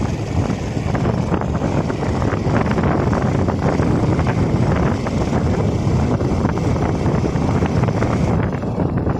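Wind buffeting the microphone on a moving bike, a steady rush with road and vehicle noise underneath.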